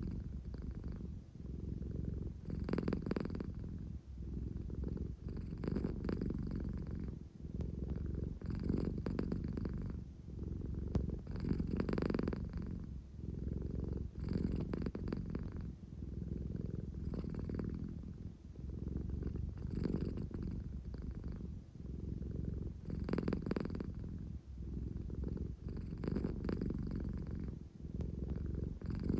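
American Shorthair cat purring steadily, the low rumble swelling and easing with each breath about every three seconds. It is the drowsy, affection-seeking purr of a sleepy cat.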